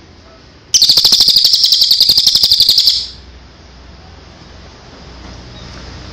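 A songbird's loud, high-pitched rapid trill of about a dozen notes a second, lasting about two seconds and starting nearly a second in.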